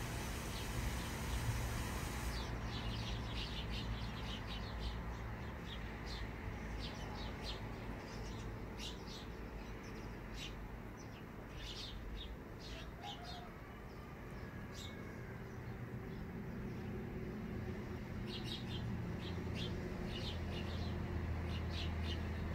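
Small birds chirping: short, high chirps repeated irregularly from about two seconds in, over a steady low rumble.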